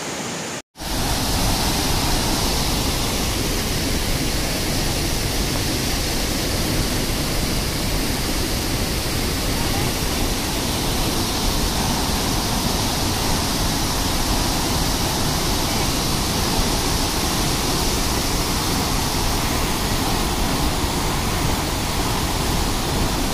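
Waterfall's falling water, a loud, steady, unbroken rush. It starts after a brief dropout less than a second in.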